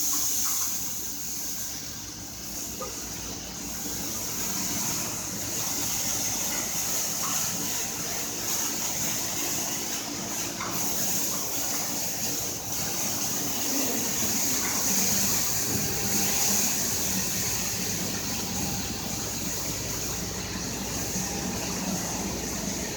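Automatic car wash running: a steady hiss of water spray over the low hum of the wash machinery and pumps.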